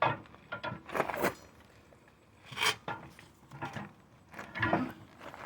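Hand tire tools working a truck tire's bead: about five irregular scrapes and knocks of metal against the wheel and rubber.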